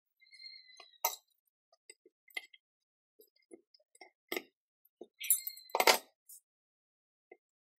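Metal workshop parts clinking and knocking as they are handled. There is a brief ringing tone near the start and again later, and the loudest knock comes about three-quarters of the way through.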